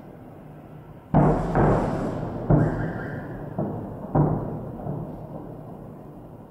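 Fireworks salute booming over the city: five booms in quick succession, starting about a second in, each fading away in a long echoing rumble.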